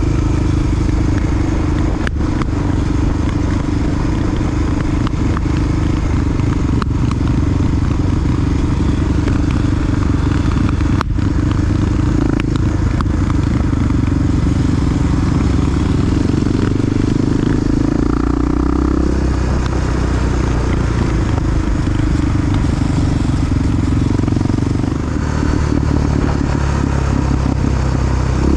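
Honda XR single-cylinder four-stroke dual-sport motorcycle engine running under way, with its note changing about two-thirds of the way through and a few sharp clicks over it.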